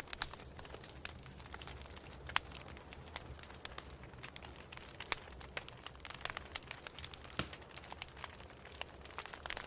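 Wood fire burning in a fireplace, crackling and popping irregularly over a low steady rumble, with sharper pops about a quarter second in, near two and a half seconds, and at about seven and a half seconds.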